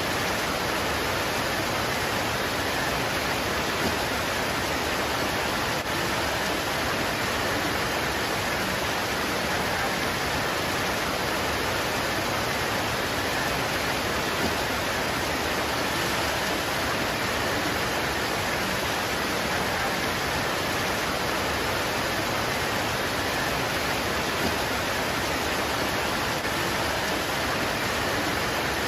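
Steady heavy rain pouring onto leaves, an even unbroken hiss with a few faint drop ticks.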